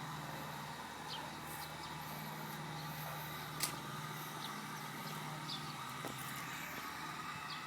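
Steady low background hum with a few short, high chirps scattered through it and one sharp click about three and a half seconds in.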